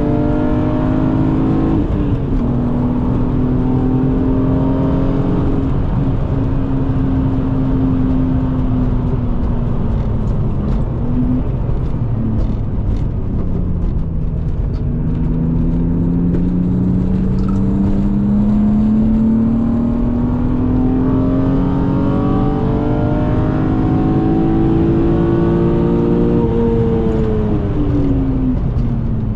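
BMW E36 M3 inline-six with an aftermarket Dinan intake and Rogue Engineering exhaust, driven hard on track. The engine note sags around ten seconds in and stays low for a few seconds. From about fourteen seconds the revs climb in one long steady rise, then drop sharply near the end as the throttle comes off.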